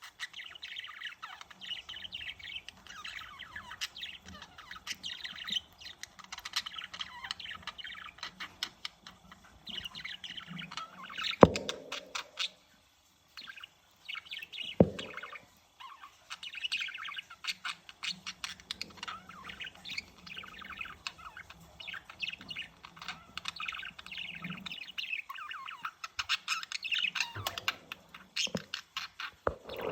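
Male budgerigar warbling its courtship song: a fast, continuous chatter of chirps, squeaks and clicks with a couple of short pauses. Two sharp taps stand out, about a third of the way in and about halfway through.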